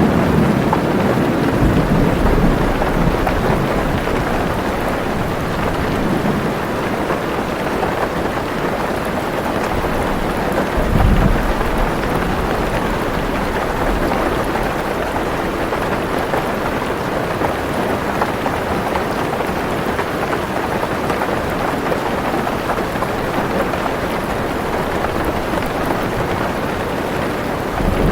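Heavy rain falling steadily on a car roof, heard from inside the car, with low rolls of thunder, the loudest about eleven seconds in.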